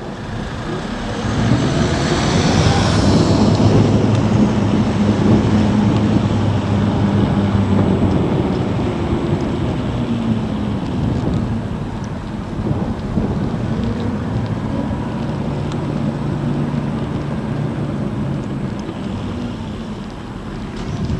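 Wind rumble and road noise on a bike-mounted camera as a Zero DSR electric motorcycle rides at speed. A steady low hum comes in about a second and a half in and fades by about nine seconds, then returns briefly later on, with a short swelling hiss about two seconds in.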